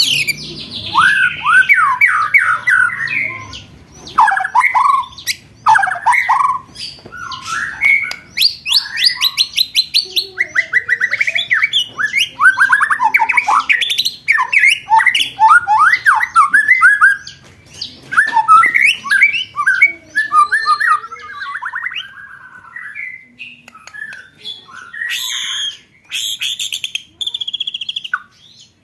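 Songbird song of the kind used as competition-bird training material: bursts of rapid trills and fast strings of repeated sharp notes ('roll tembakan'), one phrase after another with short pauses between. Near the end come high, buzzy notes.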